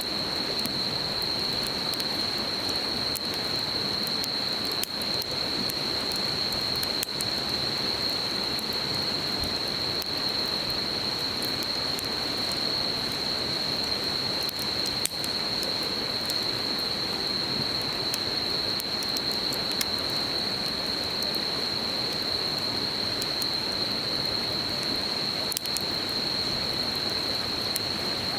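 Campfire crackling with scattered small pops, over the steady rush of a river and a continuous high-pitched insect trill.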